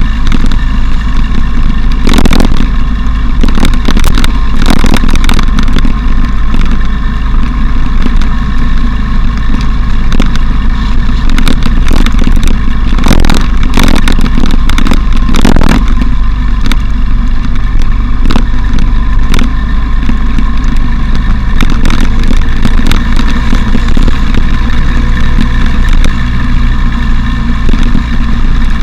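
Motorcycle engine running steadily at road speed, heard through an action camera's microphone with heavy wind rumble, the windshield removed. Sharp knocks and rattles break in now and then.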